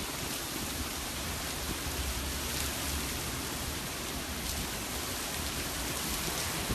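Steady rush of hurricane wind and driving rain, with wind rumbling on the microphone.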